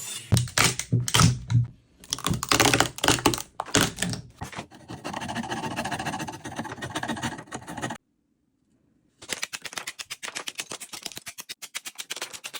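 Hand woodworking on a wooden joint, cut together in quick edits. First come a series of sharp knocks, then a steady scraping. After a second of dead silence there is a fast, even run of clicks, several a second.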